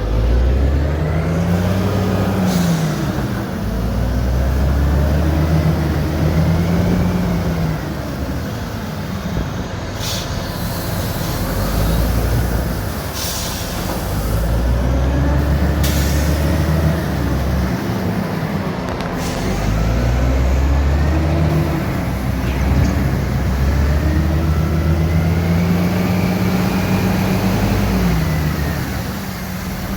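Dump truck's Caterpillar 3406 diesel engine pulling through the gears, its pitch climbing and dropping again with each shift, with a few short hisses.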